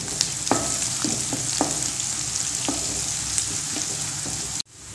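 Shallots, curry leaves and green chillies sizzling as they fry in hot oil in an aluminium kadai, stirred with a wooden spatula that knocks against the pan several times. The sound cuts off abruptly near the end.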